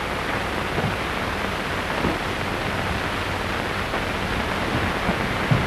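Steady hiss of an old 1930s film soundtrack, with a few faint ticks and no speech.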